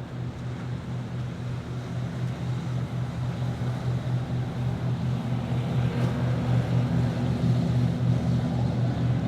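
Motorboat engine running with a steady low hum, growing louder throughout, over a wash of water and wind.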